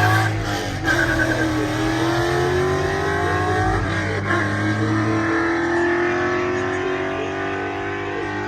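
Car engine accelerating, its pitch rising steadily over several seconds with a short break about four seconds in. A lower, steady engine hum runs underneath for the first half.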